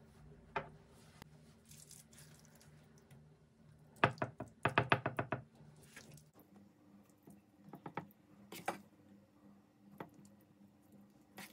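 Kitchen work noises: scattered taps and clicks of utensils and dishes, with a quick run of about eight loud knocks around four seconds in, over a faint steady hum.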